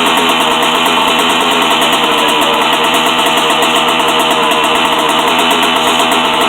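Dirt bike engine running at a steady idle, close by, with no revving.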